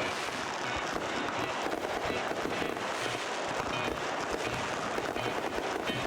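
Fireworks crackling: a dense, steady stream of many small overlapping pops and crackles, with no single big boom standing out.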